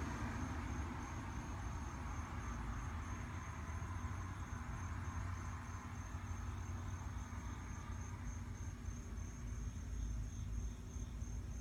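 Insect chirping: a thin, high, evenly pulsing trill, over a steady low rumble that fades just as it begins.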